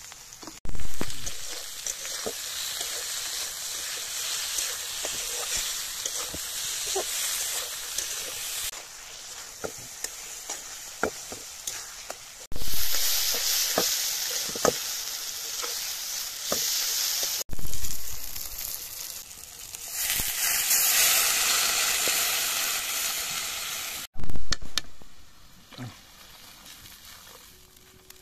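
Spice paste with tomatoes sizzling in a hot wok as a metal spatula stirs it, scraping and clicking against the pan. The sizzle stops and starts abruptly a few times and is quieter near the end.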